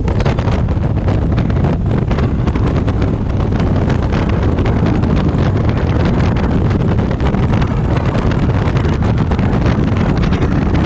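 Loud, steady wind noise buffeting the microphone of a Honda African Twin motorcycle riding at speed, with the bike's running noise underneath.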